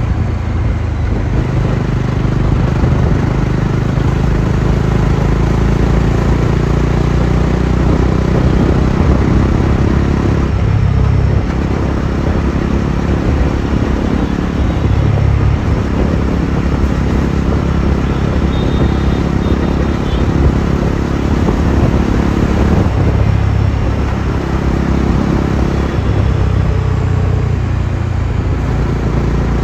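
Bajaj Dominar 400's single-cylinder engine running under hard acceleration, its pitch climbing steadily and then falling back about eleven seconds in and again about twenty-three seconds in.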